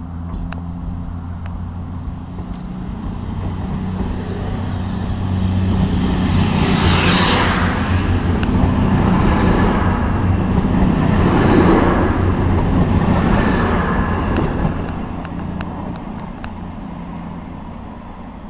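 A CrossCountry Voyager diesel multiple unit passing close by along a station platform. Its underfloor diesel engines drone, and the sound swells in surges about two seconds apart as each car goes by, with a high steady whine through the loudest part. It then fades as the train draws away.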